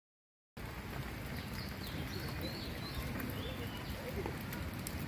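Steady rushing outdoor noise, with a few faint, high bird chirps over it; it starts abruptly about half a second in.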